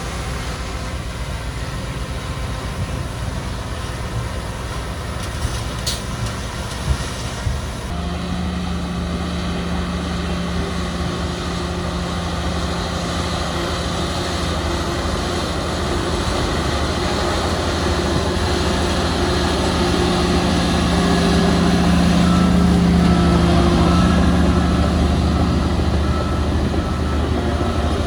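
Diesel engine of heavy earthmoving machinery running under load. Its hum steps up about a third of the way in, grows louder and then eases slightly near the end. A few short metallic knocks come before the step-up.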